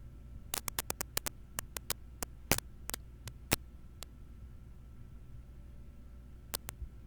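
A run of irregular sharp clicks and knocks picked up by a Razer Seiren X USB microphone as it is handled and moved, over a steady low electrical hum with a faint high whine. Two more clicks come near the end.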